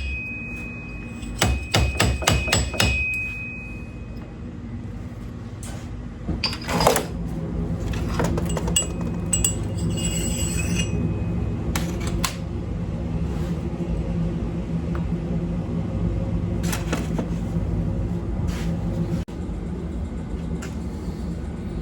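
Metal tools clicking and tapping against a motorcycle fork slider while prying at the old fork seal. A quick run of clicks comes about two seconds in, then single knocks are spaced several seconds apart, over a steady low hum.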